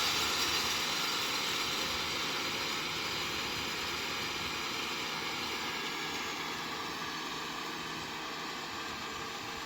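Kubota M6040SU tractor's diesel engine running steadily, growing gradually fainter as it moves away.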